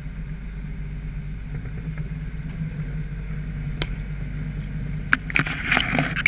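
Jeep engine running low and steady off-road. A single sharp click comes a little before four seconds, and a burst of clatter fills the last second or so.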